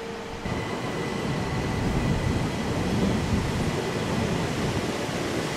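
Bernese Oberland Railway narrow-gauge electric train pulling away from a station, heard at an open window: from about half a second in, the rumble of wheels and running gear builds steadily as it gathers speed, with a faint steady whine above it.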